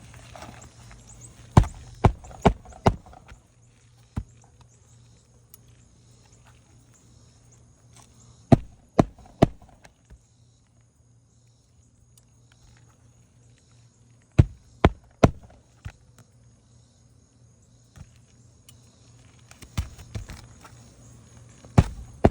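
Hammer driving roofing nails flush into shingles: groups of three or four sharp blows about half a second apart, with pauses of several seconds between nails.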